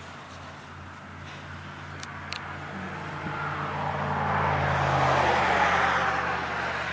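A car passing by on a wet road: its tyre hiss swells to a peak about five seconds in, then fades as it goes.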